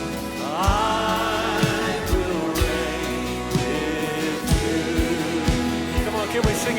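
Live contemporary worship music: a band with a steady drum beat and bass playing under singing, with a voice or lead line rising in pitch about half a second in.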